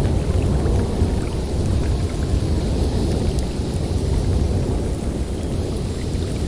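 Snowstorm wind blowing steadily through a forest, a dense, deep noise with no let-up.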